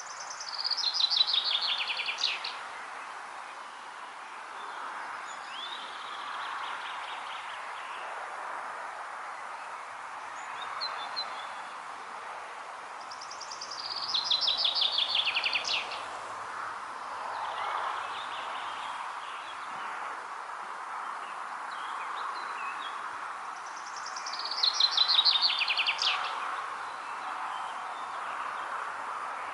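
A songbird sings the same short song three times, about eleven seconds apart: a quick run of notes falling in pitch, ending with an accent. Between the songs a steady rushing sound, like wind, fills the background.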